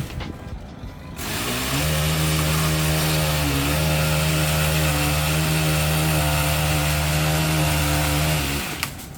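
Gas chainsaw revving up to full throttle and held there for about seven seconds, the pitch dipping briefly partway through, then cutting off sharply near the end.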